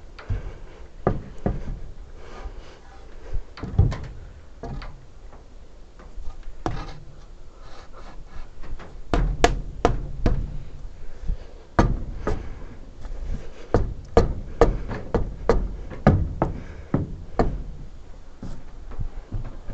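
Knocks and strikes on wooden framing timber during hand-tool carpentry. They come irregularly at first, then as a run of sharper blows about one or two a second in the second half.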